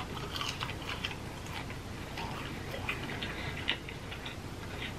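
Close-miked chewing of a chicken nugget: soft, irregular mouth clicks.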